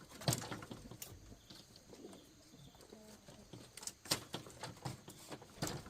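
Domestic hens giving short, soft, low clucks, among scattered sharp knocks and clicks.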